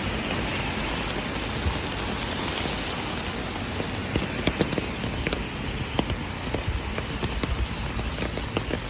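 Steady rain hiss with individual raindrops ticking on a surface, the drop ticks growing more frequent about halfway through.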